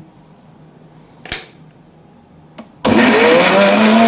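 An electric mixer grinder (mixie) grinding chutney. After a short knock about a second in, its motor switches on abruptly near the end and runs loud, with a whine that rises quickly and then holds steady.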